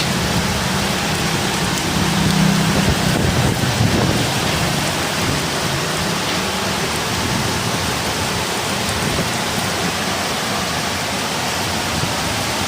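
Heavy rain and strong wind in a night storm: a steady, loud, dense rush of downpour, with a low rumble during the first few seconds.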